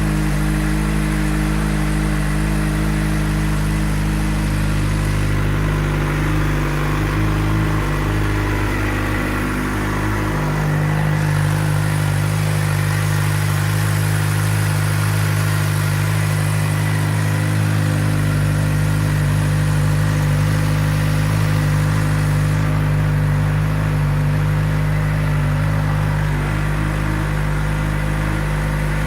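2012 Suzuki GSX-R600's inline-four engine idling steadily through a Two Brothers Silver Series aftermarket exhaust.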